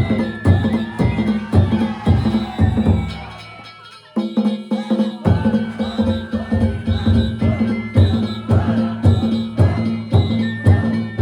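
Danjiri festival narimono: taiko drums struck in a running rhythm with ringing gongs and a high melody line over them. The playing dies away about three seconds in and starts up again about a second later.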